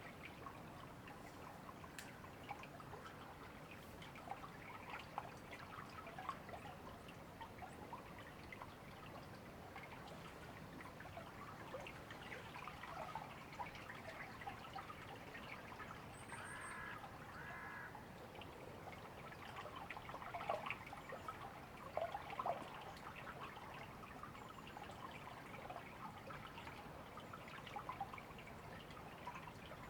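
A shallow river babbling and trickling over stones, with a few louder splashy gurgles about two-thirds of the way through. About 17 seconds in, a crow gives two short caws, just after a brief high chirp from another bird.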